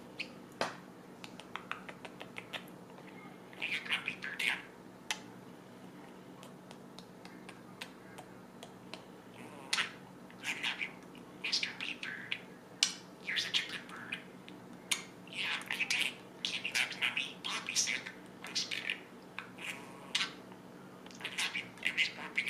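Budgie (parakeet) chattering in short bursts of chirps and clicks with brief pauses, busier in the second half.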